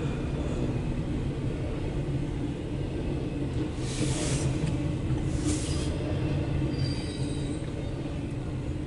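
CSX intermodal/autorack freight train rolling past with a steady low rumble, with two brief rushing bursts about four and five and a half seconds in and a faint high squeal near the end.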